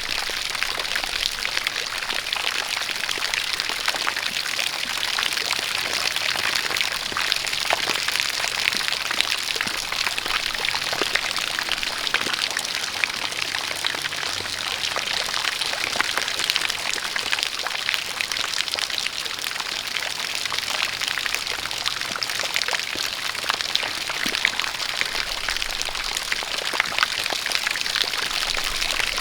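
Steady rain with many small drop taps, together with a stream of water pouring and splashing, as from a spout.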